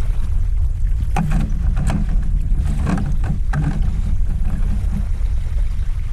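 A cast net full of bait being hauled out of the water, with splashing and dripping strokes clustered between about one and four seconds in, over a steady low rumble.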